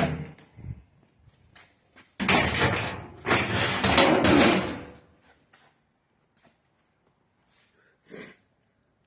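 Dryer cabinet panels and parts being handled during disassembly: a few knocks, then about two seconds in a loud clattering lasting around three seconds, followed by scattered light clicks.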